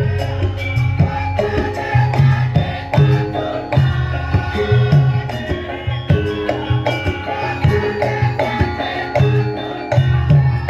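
Live Javanese gamelan music for lengger dance: hand-drum (kendang) strokes in a steady beat under ringing bronze gong-chimes and metallophones.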